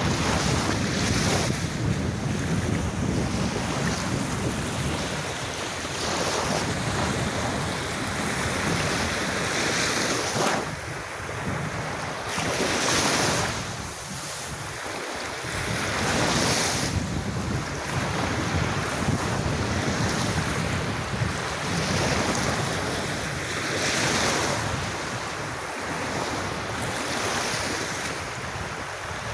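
Sea waves washing onto a beach, the surf swelling and receding every few seconds, with wind buffeting the microphone.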